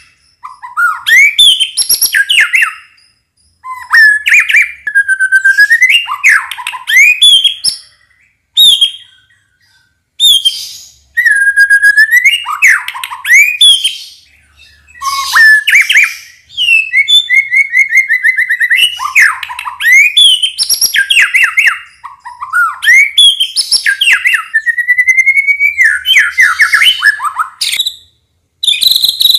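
White-rumped shama singing at full volume: a run of varied phrases of clear whistles, rapid trills and sweeping notes, each a few seconds long with brief pauses between.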